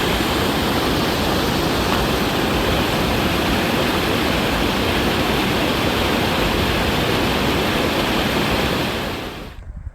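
Creek water rushing over rocks, a steady, even rush that fades out near the end.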